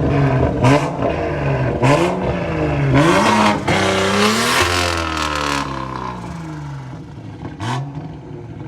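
A car engine being revved: several quick throttle blips, then a longer rev that climbs and falls back over a couple of seconds, and one more short blip near the end.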